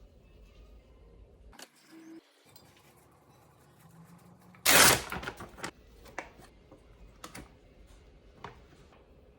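Scattered small clicks and knocks of things being handled, with one short, loud noisy burst about five seconds in.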